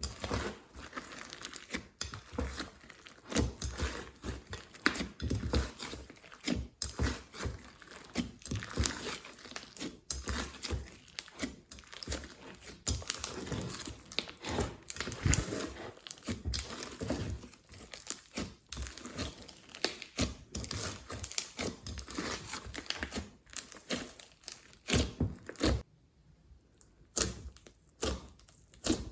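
Hands squishing and kneading glitter slime: a dense, irregular run of sticky clicks, pops and crinkling, with a short quiet gap near the end.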